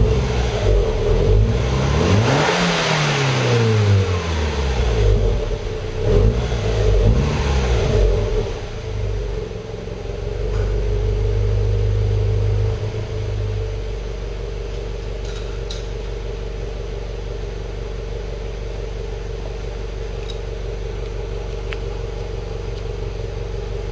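2010 Subaru Legacy GT's turbocharged flat-four exhausting through Apexi Hybrid Megaphone mufflers, revved in several quick blips over the first eight seconds. It then holds a slightly raised idle and drops to a steady idle about thirteen seconds in.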